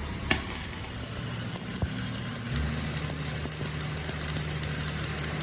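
An engine idling steadily, with a sharp click a moment in; the engine's note steps up about two and a half seconds in.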